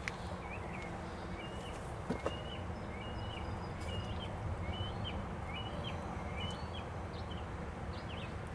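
A small bird chirping over and over, about two short chirps a second, over a steady low hum, with a couple of faint knocks.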